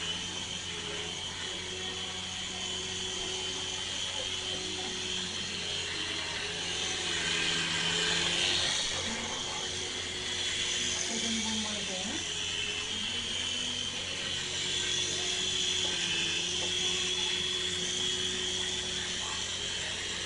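Small two-blade toy RC helicopter's electric motor and gear drive running with a steady whir, the pitch of its whine shifting up and down with the throttle; a little louder about eight seconds in.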